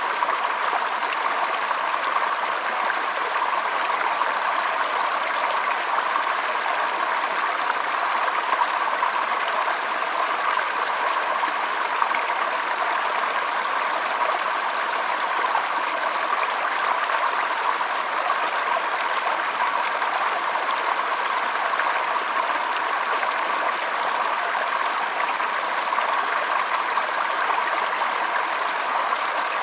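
Shallow stream flowing and trickling steadily, an even rush of water with no breaks.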